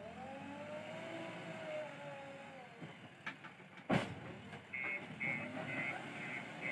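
JCB 3DX backhoe loader's diesel engine working, its pitch rising and falling as the hydraulics take load. A single sharp knock about four seconds in, then a high beeping about twice a second.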